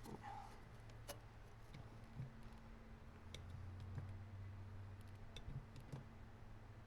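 Faint scattered clicks and light knocks over a low steady hum.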